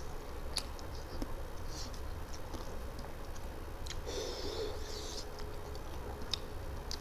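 Close-miked eating sounds of a man chewing a mouthful of chicken curry and rice eaten by hand, with scattered wet mouth clicks and lip smacks and a couple of short breaths.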